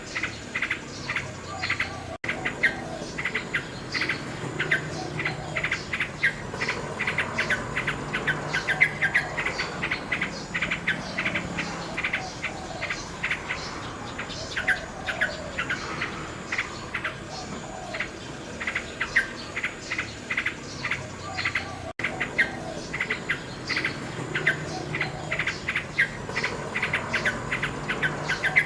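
A nightingale singing, rapid repeated chirping notes and warbled phrases, over a continuous rapid chirping of insects. There are two momentary dropouts, about two seconds in and again near the 22-second mark.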